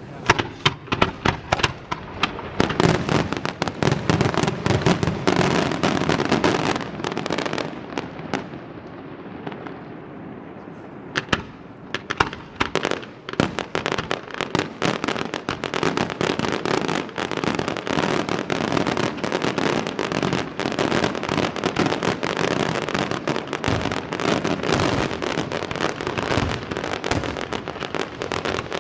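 Aerial fireworks display: rapid bangs and crackling shell bursts. There is a short lull about a third of the way through, then the barrage picks up again, dense and continuous.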